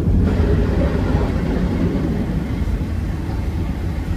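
Boeing 757-300 cabin noise on the landing rollout: a steady low rumble of engines and wheels on the runway, slowly fading as the jet decelerates.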